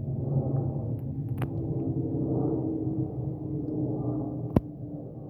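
An Airbus A380 airliner's four turbofan engines droning overhead, a low rumble carrying several steady tones, with a sharp click about four and a half seconds in.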